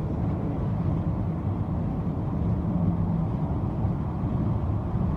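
Steady road and wind rumble of a car driving at highway speed, heard inside the cabin with a window rolled down.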